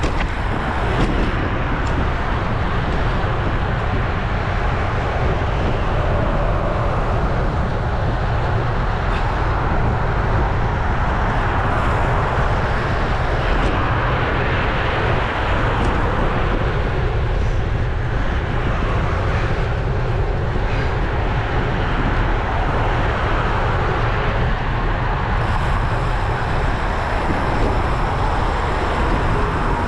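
Wind buffeting a bike-mounted action camera's microphone while riding a road bike: a steady, loud rush with a deep rumble.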